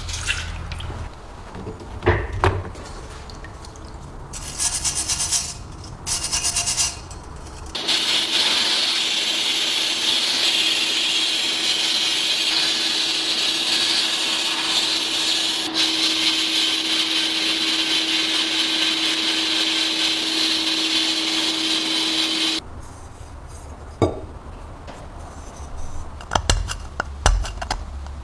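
A handheld power tool abrades metal in a continuous hissing run of about fifteen seconds with a steady motor hum that shifts slightly partway through, then cuts off abruptly. Before the long run come two short bursts, and after it scattered clicks and knocks of parts being handled.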